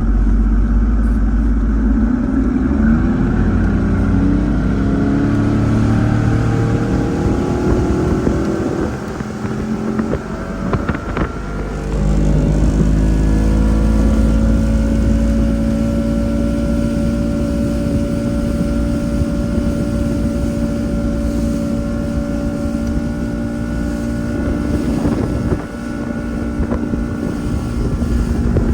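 Boat outboard motor being throttled up, its pitch climbing, then easing off briefly before climbing again and settling into a steady high-speed run. Wind buffets the microphone throughout, and there is a single knock partway through.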